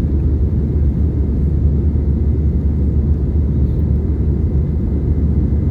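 Airbus A320 cabin noise heard from a window seat in flight: a steady, even low rumble from its CFM56 engines and the airflow, without rises or breaks.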